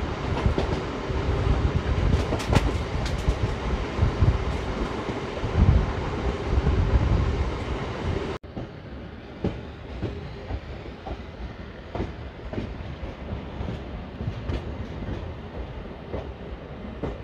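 Passenger train running at speed, heard from an open coach doorway: a steady deep rumble and the clatter of wheels over rail joints. About eight seconds in, a cut leads to a quieter stretch of evenly spaced wheel clicks.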